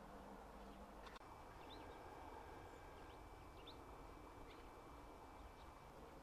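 Near silence of open country, with a few faint, short bird chirps scattered through it.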